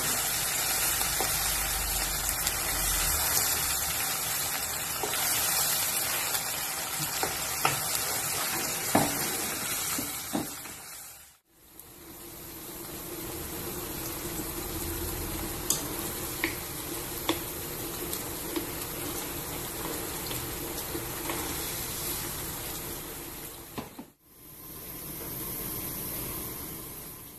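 Sliced chicken, garlic and pesto frying in hot oil, a steady sizzle with sharp taps and scrapes of a spatula on the pan. Around the middle the sound cuts abruptly to a quieter simmer of pasta in cream sauce, with a faint hum and occasional taps. It cuts again near the end to the pan simmering under a lid.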